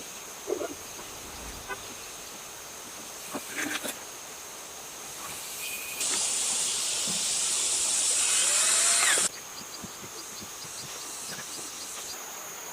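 A pressurised spray hissing loudly for about three seconds, starting and stopping sharply, after a few light clicks and taps.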